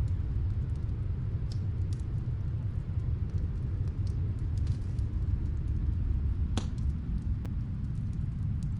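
Steady low rumble of snowstorm wind, with scattered crackles and pops from a wood fire. The loudest pop comes about six and a half seconds in.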